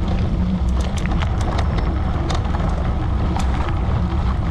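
Gravel bike rolling over a gravel track: a steady low rumble of tyres and wind, broken by scattered sharp ticks and crackles.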